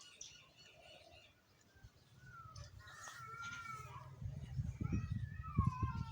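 A series of drawn-out animal calls, wavering in pitch, starting about two seconds in, over a low, uneven rumble with knocks that grows louder in the second half.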